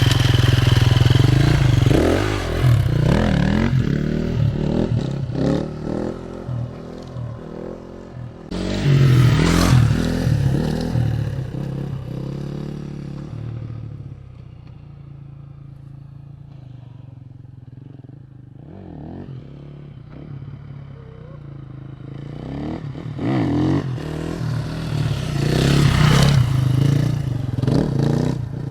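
KTM 350 EXC-F's single-cylinder four-stroke engine revving in bursts and easing off between them. It settles to a quieter, steadier run in the middle and revs hard again near the end.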